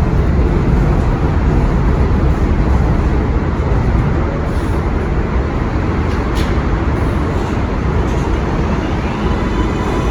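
Subway train running through an elevated station: a loud, steady rumble with no breaks.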